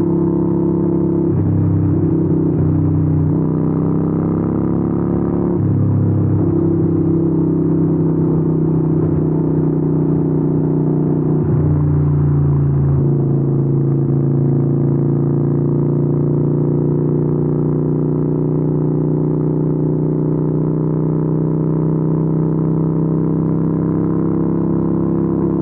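2013 Harley-Davidson 883N's air-cooled V-twin running through Vance & Hines exhausts on the road. The engine pitch rises and steps back down several times in the first half, as the bike accelerates through the gears, then settles into a steady cruise with a slowly rising pitch.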